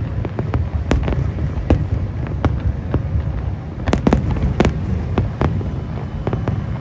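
Aerial fireworks going off: a string of sharp bangs at uneven intervals over a continuous low rumble. The loudest bangs come about four seconds in and again half a second later.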